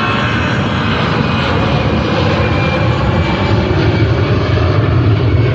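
Airliner's engines running as the aircraft passes the airport: a loud, steady rumble, with a faint high whine that fades early on and the rumble growing slightly louder toward the end.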